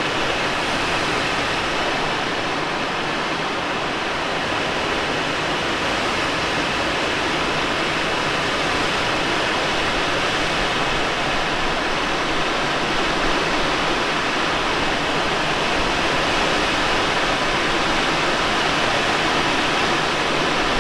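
Steady rush of airflow over a Let L-13 Blaník glider in unpowered flight, heard from inside the cockpit, with no engine sound.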